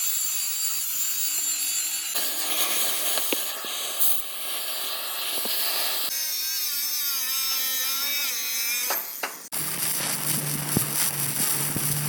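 Workshop power tools working on metal, in a run of short clips that change abruptly every few seconds: a harsh, steady high-pitched noise, a wavering whine in the middle section, and a steady low hum joining near the end.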